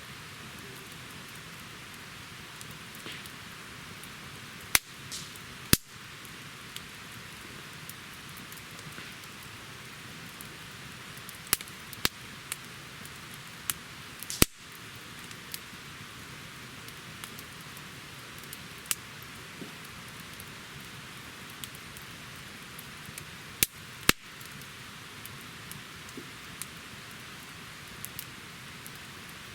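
Wood campfire burning with a steady crackling hiss and sharp pops, the loudest pops coming every few seconds, several of them in pairs about a second apart.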